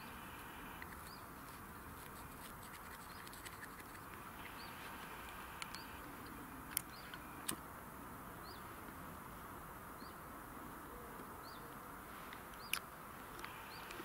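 Faint outdoor background with a small bird giving a short, high chirp every second or so, and a few sharp clicks, two of them about seven seconds in and one near the end.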